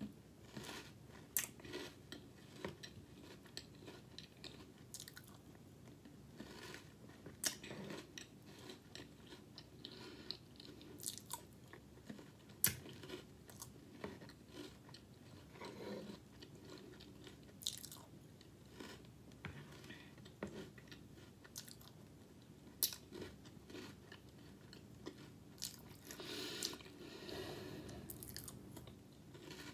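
A person chewing and crunching spoonfuls of Funfetti cereal in milk, with short sharp clicks at irregular intervals as a metal spoon knocks against the bowl.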